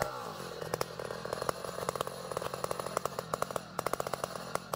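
Saw engine winding down to idle after a cut, then running steadily at a low pitch with rapid, irregular clicking and clattering on top.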